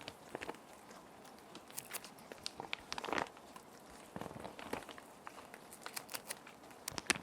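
Plastic sheet protectors crinkling and rustling as paper sheets are slid in and handled, in irregular bursts of crackles over a steady soft hiss of rain.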